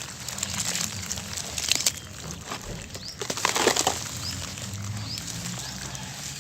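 Dry sand-cement lumps being smashed and crumbled: irregular crunching and cracking with gritty crumbling in between, loudest just under two seconds in and again around three and a half seconds in.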